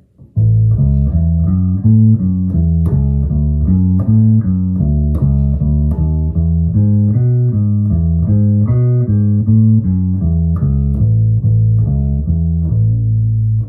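Birdsong Hy5 five-string passive electric bass played through an amp on its neck pickup alone, with the tone control fully up: a steady line of plucked notes that starts about half a second in and stops just before the end.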